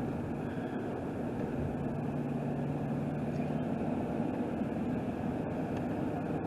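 Steady road and engine noise inside a vehicle's cabin while driving on the interstate, with a low, even hum.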